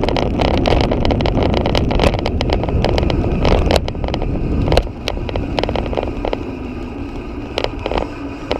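Wind rushing over the microphone on a moving bicycle, with frequent sharp clicks and rattles. The rush eases about five seconds in.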